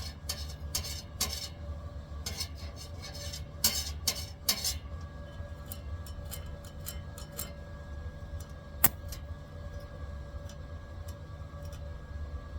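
Short bursts from spot welds being laid on a metal logo, several in the first five seconds, with light metallic clinks and ticks and one sharp click about nine seconds in, all over a steady machine hum.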